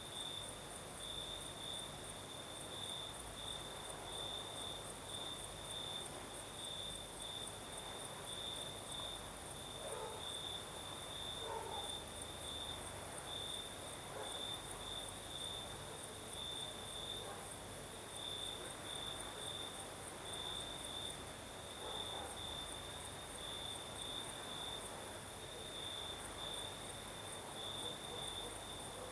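Crickets chirping at night in a steady, rapid pulsing chorus, with a second, higher-pitched insect chorus pulsing above it.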